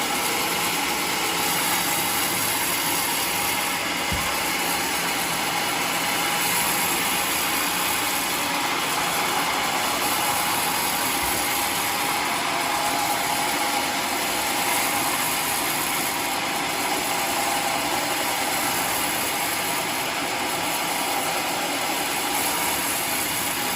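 Homemade sawmill running steadily, its engine and saw giving a constant mechanical noise that does not change.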